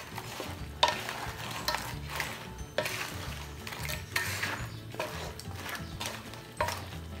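Seafood frying in butter and garlic in a pan, sizzling, while a utensil stirs and scrapes against the pan about once a second.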